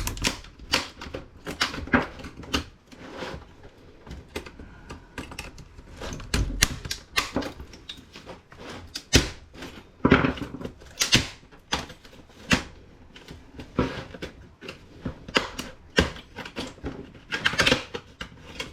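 Irregular clicks, taps and scrapes of small hand tools prying at a laptop's plastic case and a steel part, with louder clusters of knocks about ten seconds in and near the end.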